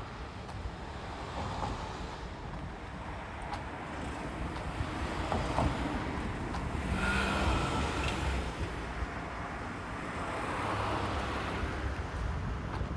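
A passing vehicle: a rushing tyre-and-engine noise that builds, peaks about seven seconds in with a faint tonal hum, and fades, then swells once more around eleven seconds.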